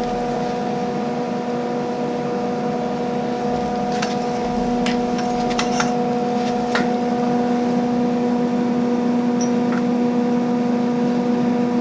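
A steady machine hum with an even, unchanging pitch, with a few light clicks and taps about four to seven seconds in.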